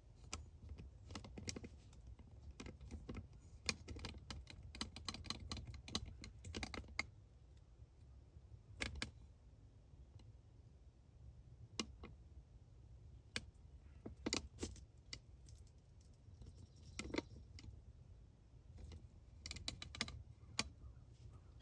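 Deer crunching corn kernels at a corn pile: irregular sharp clicks and crunches, thick for the first several seconds, then scattered single clicks and small clusters.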